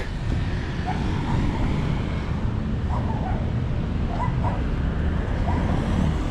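Steady low rumble of street traffic, with a few faint short barks of a distant dog.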